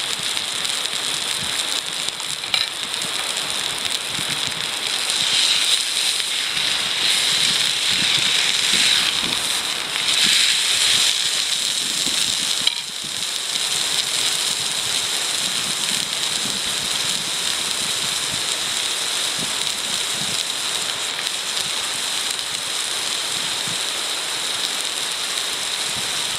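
Food sizzling in a wrought-iron frying pan over a wood fire, a steady hiss that swells for a few seconds in the middle, with a few faint pops.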